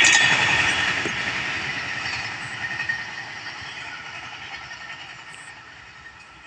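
Train passing at speed and receding, its rail noise fading steadily away.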